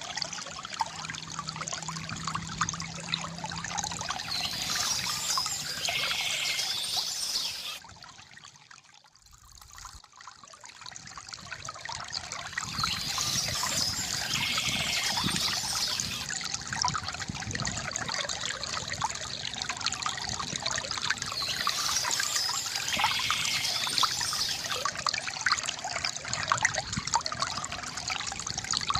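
Small stream trickling and splashing steadily. About a third of the way in it fades almost to silence for a couple of seconds, then swells back.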